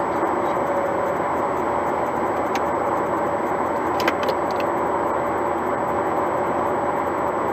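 Steady road and engine noise inside the cabin of a moving car, with a couple of light clicks near the middle.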